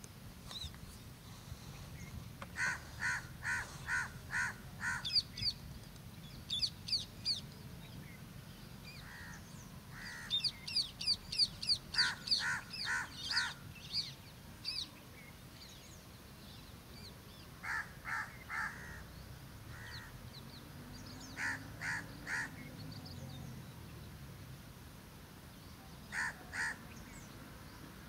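Birds calling: short calls repeated in groups of two to six, with separate runs of high, quick, falling chirps from a second bird twice in the first half.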